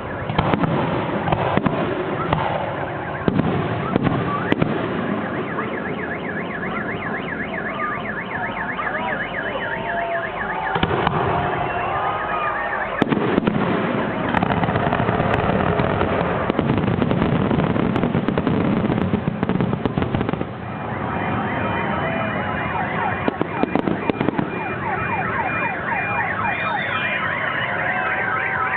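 Fireworks display: a continuous barrage of bangs and crackle with crowd voices underneath. For stretches, a rapid high warbling tone, like a car alarm, sounds through it, most strongly in the last few seconds.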